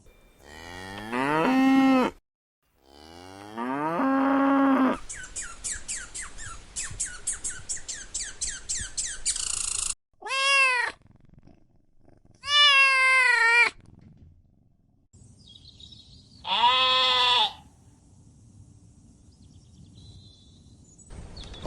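A series of separate animal calls, one after another: two long, low cow moos rising in pitch, a rapid pulsing stretch, then three shorter, higher calls of the cat or sheep kind.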